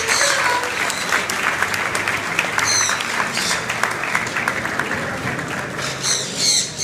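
Crowd applauding steadily, with a few high calls rising over it near the end.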